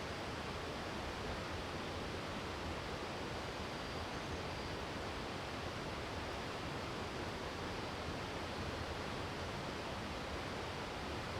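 Steady, even rushing noise of water, with no distinct knocks or calls standing out.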